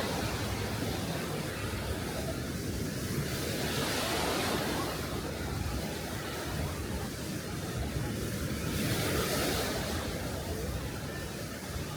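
Sea waves breaking and washing up the beach, a steady rush that swells every four to five seconds.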